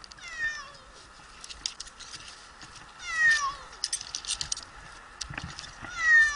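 A domestic cat stranded high in a pine tree meowing three times, each a loud cry that falls in pitch, about three seconds apart. Light clicks sound between the cries.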